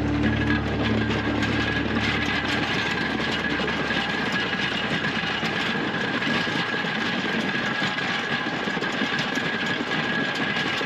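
Massey Ferguson 1835E compact tractor running under steady load, with a steady high whine over the engine noise.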